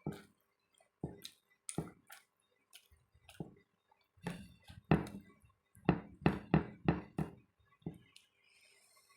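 Close-up eating sounds of a person eating rice with dal and omelette: a series of short, sharp mouth and food sounds. They come a few at a time at first, crowd together to about three a second in the middle, and then thin out.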